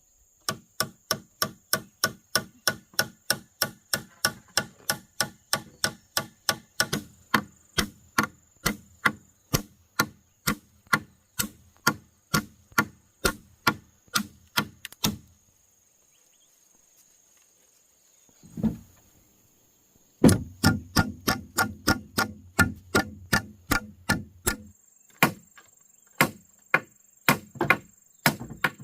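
Hammer driving nails into the timbers of a wooden barn frame: steady blows, about two to three a second. The blows stop for a few seconds past the middle, with one dull thump in the gap, then resume. A high, steady insect drone sounds behind.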